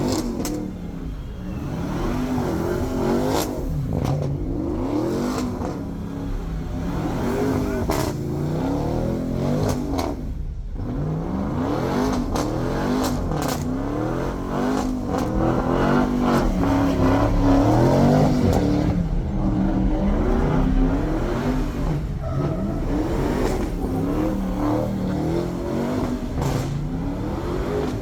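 A car engine revved hard again and again at a burnout, its pitch climbing and dropping about every second or two.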